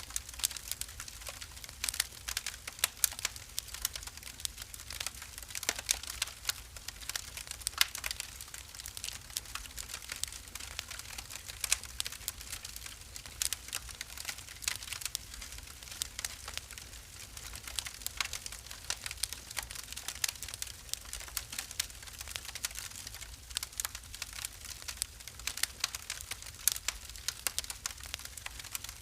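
Wood fire burning in a fireplace, crackling with many small irregular pops and snaps over a soft hiss and low rumble.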